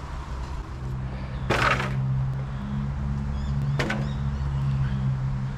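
A steady low mechanical hum, like an engine running, comes in about a second and a half in, with two short sharp knocks or squeaks, one as it starts and one a couple of seconds later.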